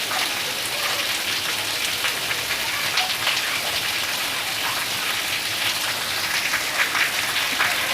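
Heavy rain falling steadily, with many small drop impacts spattering on surfaces.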